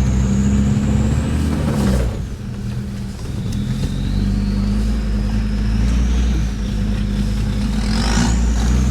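Land Rover Discovery 2 Td5 five-cylinder turbodiesel engine running as the truck drives off-road at low speed. The level dips briefly about two seconds in, and a faint high whine slides up and down above the engine.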